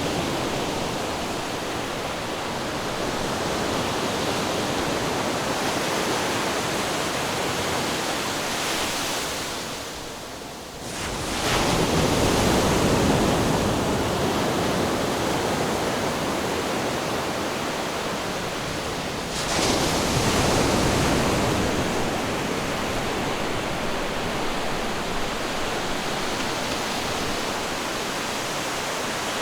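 Ocean surf: a continuous rush of waves breaking and washing, with a wave surging in suddenly about eleven seconds in and another about twenty seconds in.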